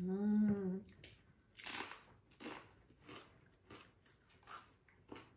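A short hummed "mmm" of enjoyment, then a person chewing something crunchy, with about six separate crunches spread over the next few seconds.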